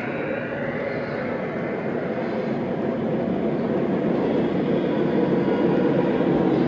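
Three-rail O gauge model train running on the track, a steady rumbling whir that grows louder over the second half.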